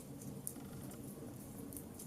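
Wood fire burning in a fireplace: a steady low rumble with irregular sharp crackles and pops, one louder pop about half a second in.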